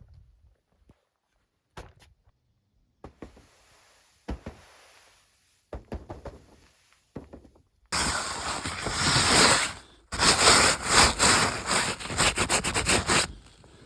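A few separate knocks, then about eight seconds in a loud, dense run of crunching and scraping made of many quick strokes, pausing briefly once.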